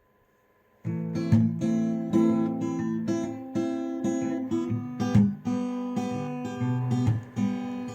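Acoustic guitar strumming chords as a song's instrumental intro, starting about a second in after a brief near silence.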